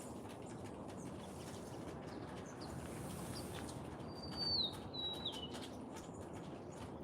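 A songbird gives two short whistled notes about a second apart, about four and five seconds in, each held on a high pitch and then sliding down, over a steady low background noise.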